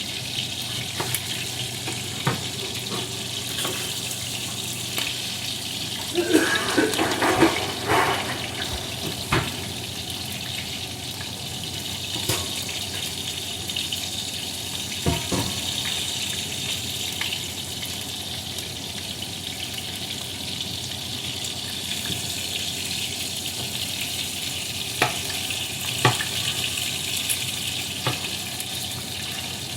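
A steady watery hiss with a few sharp knocks, and a short clatter of knocks about six to eight seconds in.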